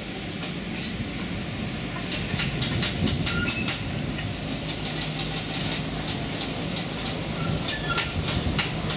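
A 2 ft gauge Alan Keef diesel locomotive running steadily with its train of carriages, its engine a low steady hum. From about two seconds in, the wheels add a run of sharp clicks on the track.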